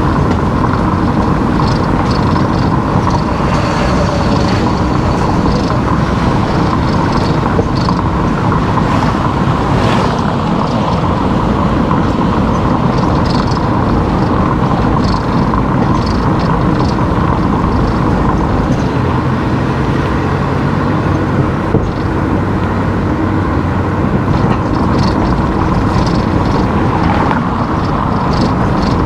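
Car driving along a road: steady engine and tyre noise with a low hum.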